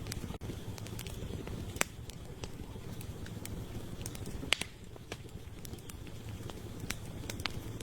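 Wood campfire crackling: irregular sharp pops of burning firewood over a steady low rumble of the flames, with two louder pops about two seconds in and a little past halfway.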